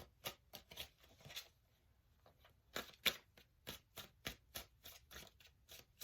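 A deck of tarot cards being shuffled by hand, with a soft slap of cards about three times a second and a short pause about a second and a half in.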